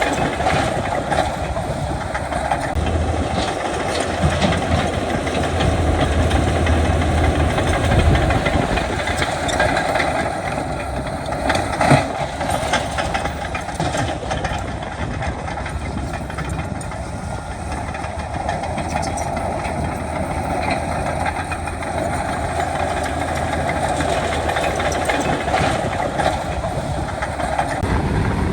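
Heavy diesel earthmoving machinery running steadily under load, with scattered knocks and one sharp clank about twelve seconds in.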